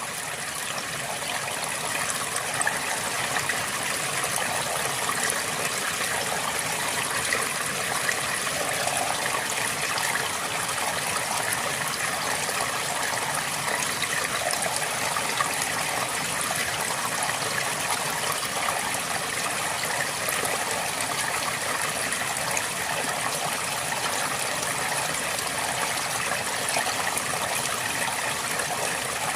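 A river flowing steadily, its water rushing and trickling in an even, unbroken wash.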